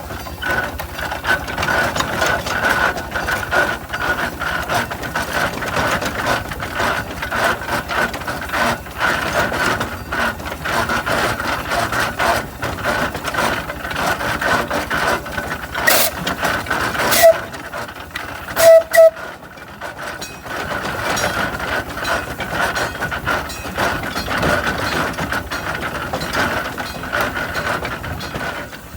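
Half-scale coal-fired Case steam traction engine running, with a dense rapid clatter and a steady high whine. A few sharp, very loud short blips come about two-thirds of the way through.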